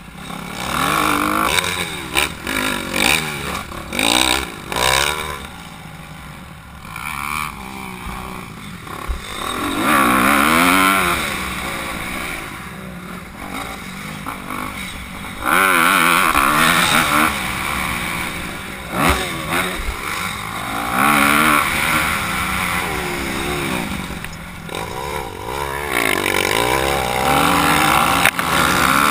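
Honda CRF250R single-cylinder four-stroke motocross bike ridden hard: the engine revs up through the gears and drops back again and again, in repeated loud surges with quieter stretches between.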